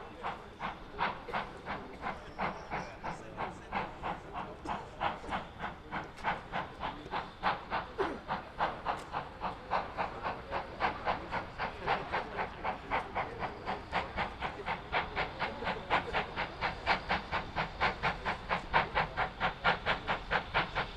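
Steam locomotive exhaust beats: a regular run of chuffs that quickens from about two or three to about five a second as the engine gathers speed.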